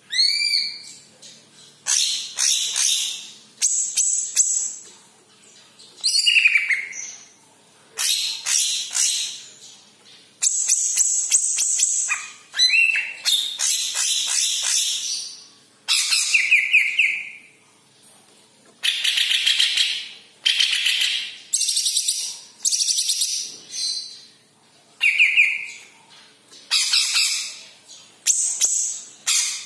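Cucak ijo kepala kuning (yellow-headed leafbird) singing loud, varied phrases, each one to two seconds long with short pauses, mixing clear whistled glides with fast chattering notes.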